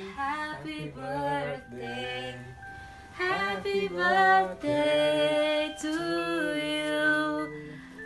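People singing a birthday song together, a woman's voice to the fore, in phrases with some long held notes.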